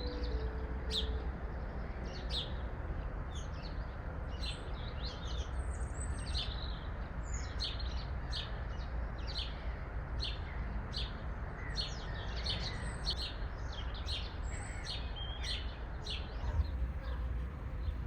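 Small birds chirping in short, quick calls, a couple of times a second, over a steady low background noise.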